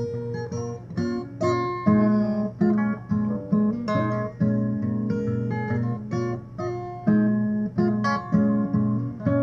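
Acoustic guitar played by hand: a run of plucked notes and strummed chords in an uneven, stop-start rhythm, like someone working out a riff.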